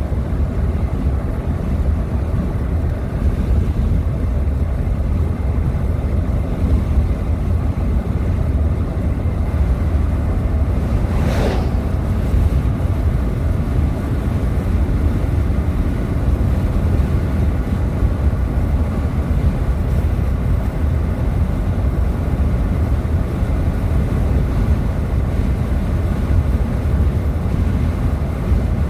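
Steady low rumble of road and engine noise in a moving car. A brief sharper sound cuts through about eleven seconds in.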